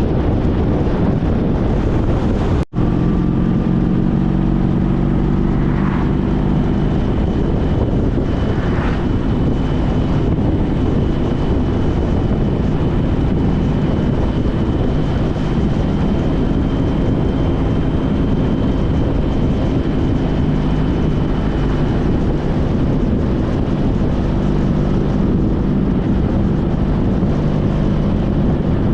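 Honda CTX1300's V4 engine running steadily at road speed under wind rush, as heard while riding. A split-second dropout comes a few seconds in.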